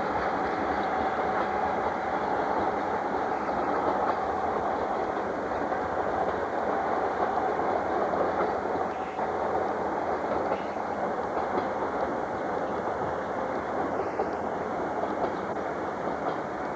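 A train running steadily on the Tarumi Railway line, a continuous noise of wheels on rail.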